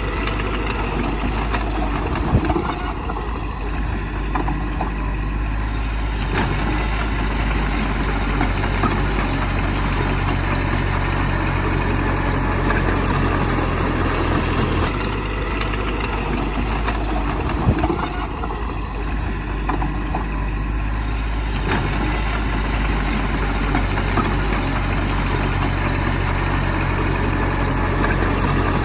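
Heavy diesel earthmoving machinery running steadily, with a low engine drone and a sharp knock twice.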